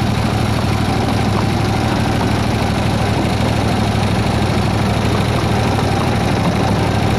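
The engine of a 7¼-inch gauge miniature Baldwin S-12 locomotive running steadily as the locomotive moves along slowly, a constant low hum with no change in pitch or level.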